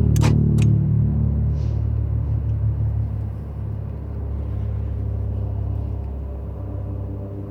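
Car engine running with a steady low rumble, with a couple of sharp clicks in the first second.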